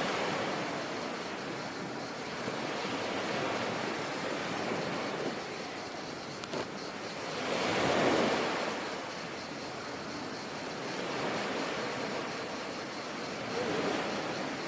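Sea waves washing onto the shore as a continuous rush that swells and ebbs. One wave comes in louder about eight seconds in.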